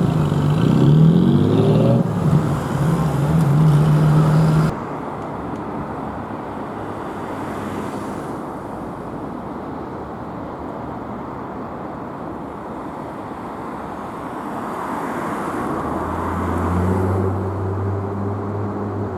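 A vehicle engine revs up, rising in pitch, then holds a steady note and cuts off suddenly about five seconds in. Steady road traffic noise follows, with an engine running at a steady low note near the end.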